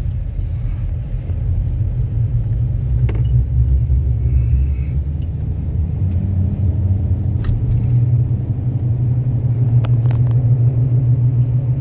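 Steady low rumble of a vehicle driving along a road, heard from inside the cab, with a few faint clicks.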